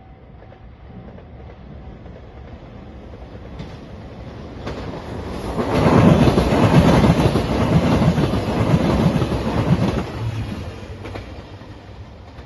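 A four-car JR Shikoku 2700 series diesel limited express train passing over a level crossing. It approaches, runs past with loud wheel rumble and clatter for about four seconds in the middle, then fades away.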